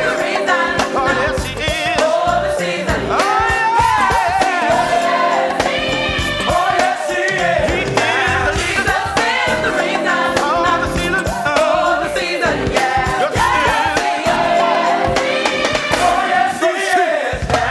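A song: singing voices over instrumental backing.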